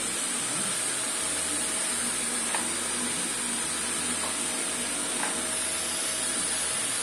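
Kärcher VC 3 bagless 700-watt vacuum cleaner running steadily: an even rushing of air with a high whine on top, during a test of how loud it is.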